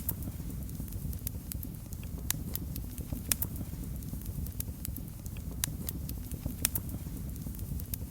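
Fireplace fire crackling: irregular sharp pops and snaps, several a second and uneven in loudness, over a low steady rumble of the flames.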